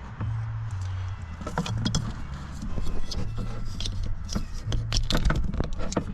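Universal high-power battery connectors being handled and fitted together: a quick run of sharp plastic-and-metal clicks and rattles over a steady low hum.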